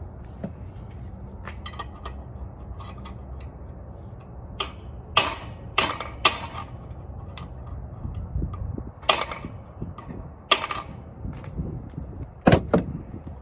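Irregular sharp metallic clanks and knocks of hand tools against engine parts during teardown of an engine with a broken rod, about eight hits in the second half with a close pair near the end, over a steady low hum.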